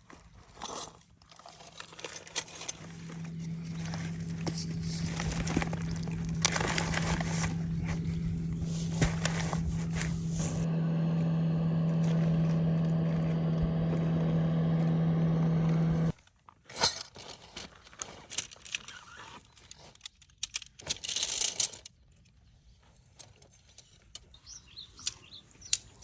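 A steady low motor hum at one pitch, growing louder over several seconds, then cutting off suddenly. Scattered clicks and rattles come before and after it.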